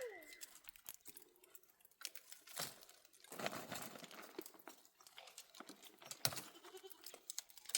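A goat's bleat trailing off at the very start, then scattered faint crunching and rustling.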